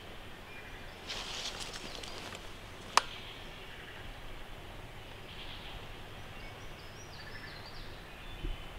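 Faint songbirds calling in quiet woods, with short high chirps and a run of stepping whistled notes near the end. A single sharp click sounds about three seconds in.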